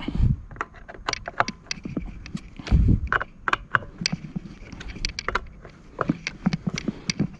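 Irregular clicks and knocks of hard plastic parts and a tool being handled while a leaf blower's starter housing is put back together, with two heavier thumps, one at the start and one about three seconds in.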